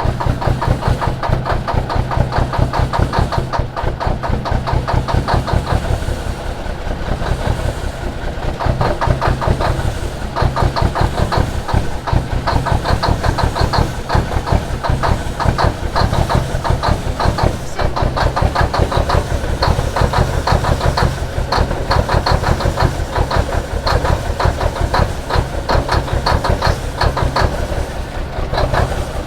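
Big Cam 400 Cummins inline-six diesel in a 1976 Kenworth W900A, cranking over on a cold start with a rapid, even chugging rhythm, not yet running cleanly.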